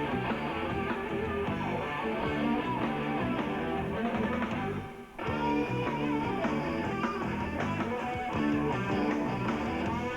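Rock song's instrumental passage led by guitar, with a brief break about five seconds in before the band comes back in.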